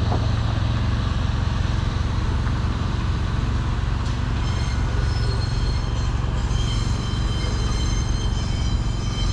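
Class 141 Pacer diesel railbus running with a steady low engine drone. From about halfway a thin high whine joins in.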